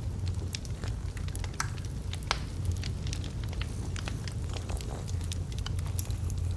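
Wood logs burning in a fireplace: a steady low rumble of flame with frequent irregular crackles and pops.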